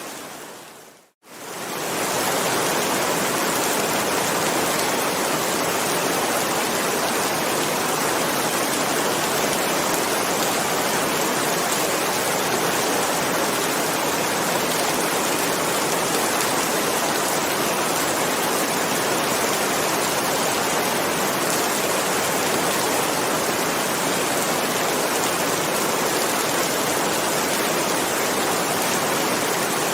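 Steady heavy rain, an even hiss of downpour. About a second in it fades briefly to silence and comes straight back, like the join of a looped recording.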